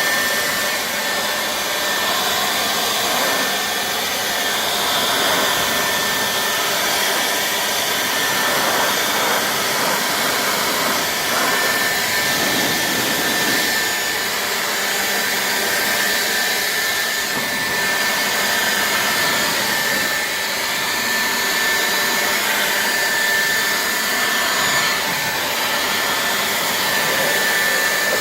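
Handheld leaf blower running steadily with a thin, high whine, blowing rainwater off a truck's body.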